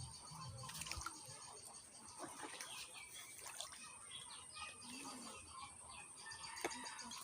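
Birds chirping faintly, many short high chirps scattered throughout, with a low hum that stops about a second in.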